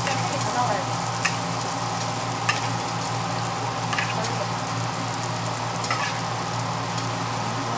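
Hotteok (Korean sweet pancakes) sizzling steadily in oil on a flat griddle, with a few short clicks of metal tongs against the pan.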